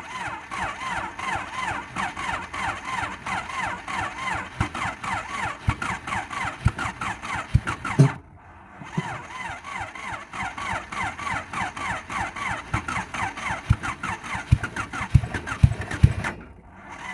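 2001 Honda Civic engine being cranked by its starter in two long runs, with a short pause about eight seconds in, and a few low thumps in the second run. It does not catch: only one spark plug wire is connected, and the engine will not start on one cylinder.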